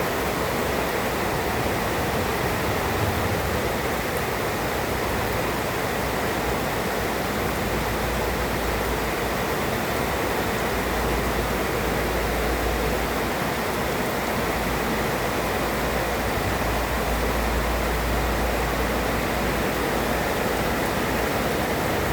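Heavy tropical rain falling steadily, an even hiss with a low rumble swelling and fading underneath at times.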